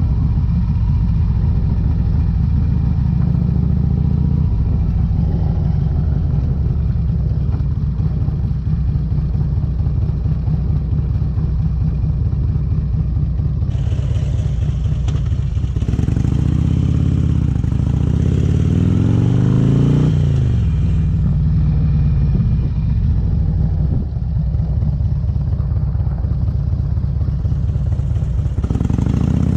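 Harley-Davidson Electra Glide V-twin running through Vance & Hines exhaust pipes while riding. Its note holds steady, then rises as the bike accelerates about two-thirds of the way through, drops suddenly, and picks up again near the end.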